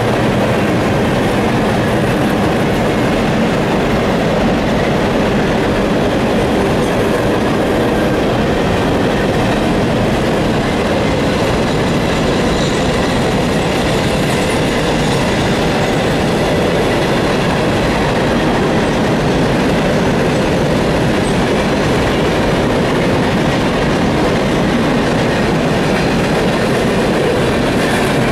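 CSX coal train's hopper cars rolling past across a steel girder overpass, a loud, steady rumble of wheels on rails.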